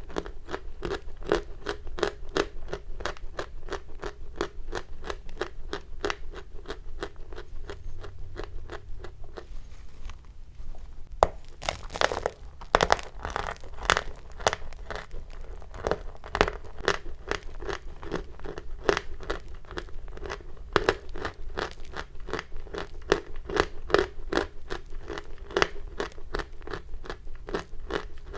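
Chalk crunching close to the microphone in a steady run of crisp crackles, about three or four a second, with a brief lull about a third of the way through.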